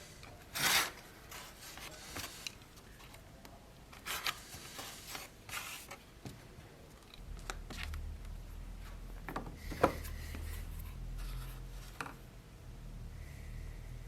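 Irregular hand rubbing and filing strokes on the knife, a handful of short strokes spaced unevenly. There is a single sharp knock about ten seconds in and a low hum through the second half.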